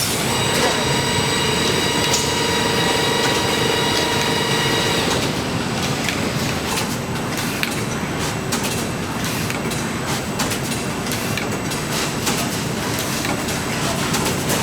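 Production machinery running: a steady machine whine for about the first five seconds, then irregular rapid clicking and clattering.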